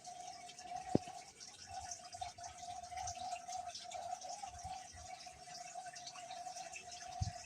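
Water trickling and dripping in a hydroponic setup, over a steady hum. There is a single sharp click about a second in.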